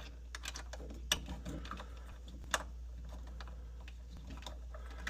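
Irregular light metal clicks and ticks of an 11/32 nut driver or socket working a nut off the inducer motor capacitor's mounting, a few sharper clicks standing out, over a steady low hum.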